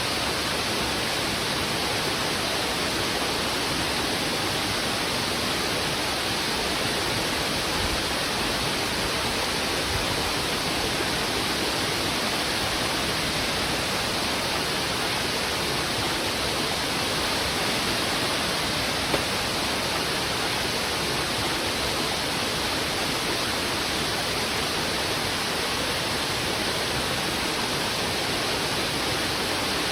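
Heavy river water rushing over rocks in a steady, unbroken roar of water noise.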